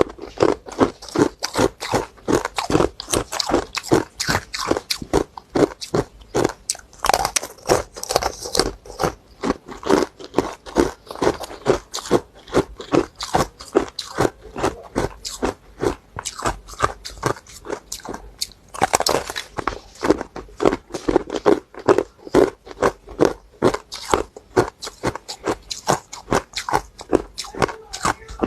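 Hard ice being bitten and chewed close to the microphone: a steady run of sharp, hard crunches, several a second.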